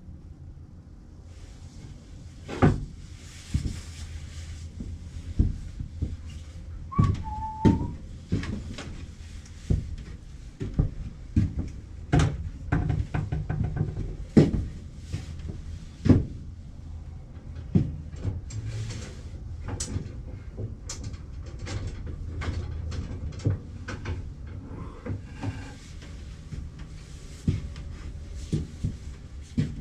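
Irregular knocks and clicks of cedar picket pieces and tools being handled and set down on a workbench, over a low steady hum. A brief squeak comes about a third of the way in.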